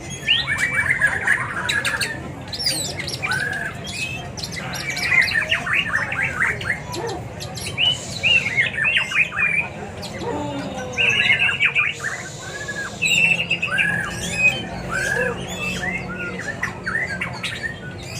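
Many caged birds at a bird market calling at once: dense, overlapping chirps, whistles and squawks from several birds, over a steady low background hum.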